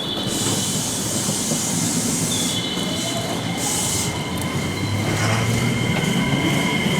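JR West electric train moving through the station, its wheels giving a steady high-pitched squeal that grows louder. A rising motor whine joins in during the second half.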